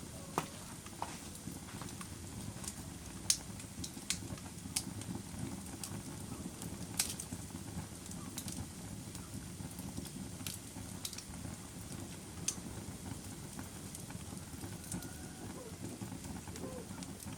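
Wood fire in a fireplace crackling: a steady low rush of flames with sharp pops and snaps scattered irregularly, the loudest about three seconds in and again about seven seconds in.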